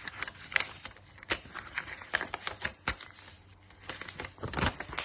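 A sheet of paper being handled, folded and creased by hand: irregular crinkles and sharp creasing clicks.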